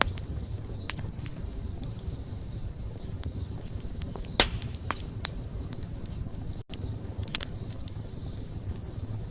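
Wood campfire crackling: irregular sharp pops and snaps over a steady low rumble of the flames, the loudest pop about four and a half seconds in. The sound drops out for a split second a little past halfway.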